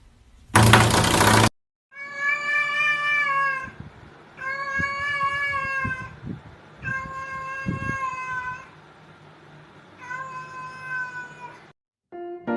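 A cat gives four long, drawn-out meows, each about a second and a half, at a fairly steady pitch. Before them, near the start, comes a loud burst of noise lasting about a second.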